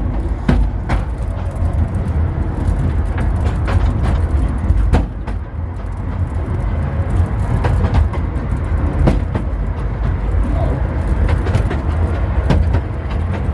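Miniature railway train setting off and running along the track: a steady low rumble with irregular sharp clicks and knocks.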